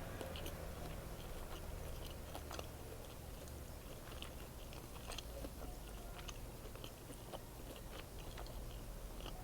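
Close-up chewing of an egg sandwich: scattered small mouth clicks and soft crunches at an irregular pace, over a low steady hum.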